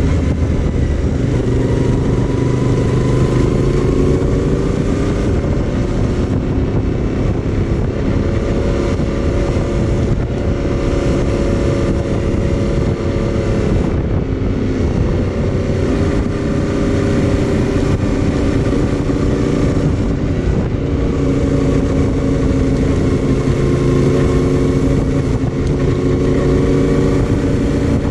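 Yamaha Tenere 700's 689 cc parallel-twin engine running under way as the motorcycle is ridden, its note rising and falling again and again with the throttle.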